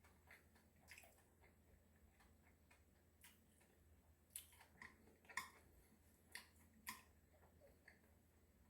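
Quiet chewing and mouth sounds of someone eating: scattered soft clicks and crunches, with a cluster of sharper ones a little past the middle.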